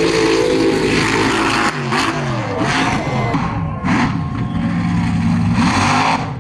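Mud truck's large engine running hard and revving, its pitch shifting and gliding up and down, with short bursts of hiss in between.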